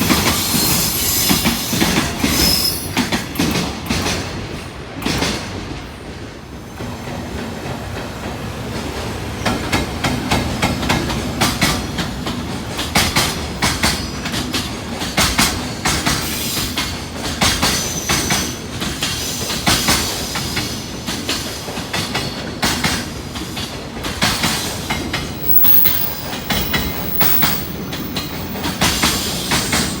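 Freight train rolling past, its wagon wheels clicking over the rail joints in a continuous, uneven clatter, with a couple of brief high wheel squeals.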